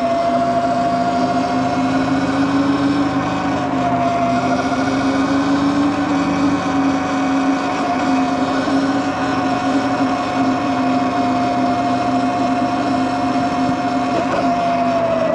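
Electric bike motor whining steadily while riding, its pitch drifting slightly up and down with speed, over rolling road noise.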